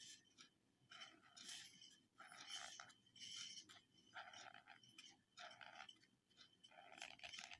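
Faint scratching of a pen drawing a series of short slanted lines, roughly one stroke a second.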